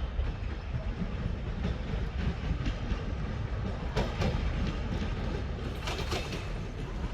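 Train rolling through a station, a steady low rumble with irregular wheel clacks over rail joints, the sharpest about four and six seconds in.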